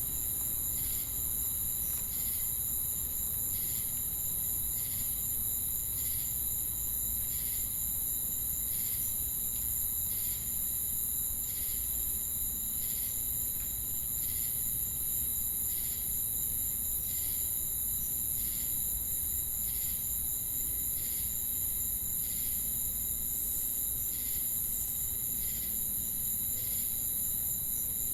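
Crickets and cicadas: a steady high-pitched insect drone, with a short chirp repeating about once a second.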